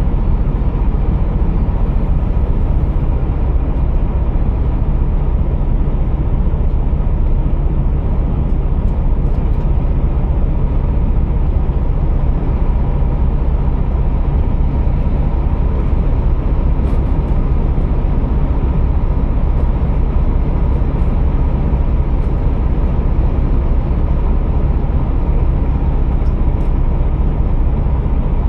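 Steady low drone of a Scania R480 truck's 13-litre straight-six diesel heard from the cab, running evenly without change in pitch.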